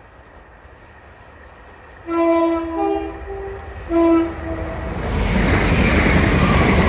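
Class 387 electric multiple unit sounding its three-tone horn about two seconds in, a run of stepped notes followed by a second short blast a second later; from about five seconds in the rushing noise of the train passing grows loud and holds.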